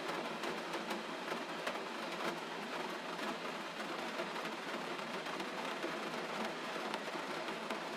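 Gentle rain falling steadily: an even hiss with many small, scattered drop ticks.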